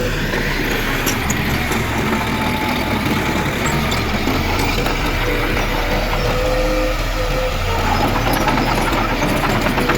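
Heavy diesel earthmoving machinery running steadily, with a constant whine over the engine and light clattering near the end.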